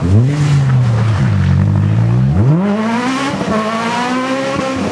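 Rally car engine at high revs on a stage: the revs shoot up at the start, drop about a second in as the driver eases off, then climb steeply again at about two and a half seconds and stay high.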